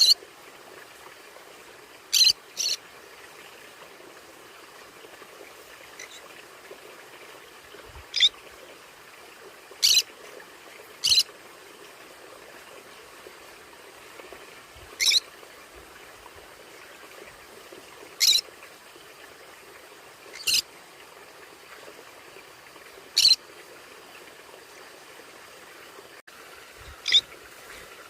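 Conure giving short, sharp, high-pitched calls, about ten of them spaced a few seconds apart, over a steady faint hiss.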